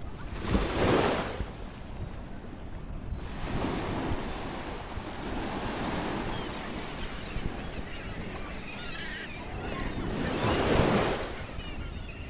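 Sea waves breaking on a rocky shore and washing back. The two largest waves crash about half a second in and again near the end, with a steady wash of surf between them.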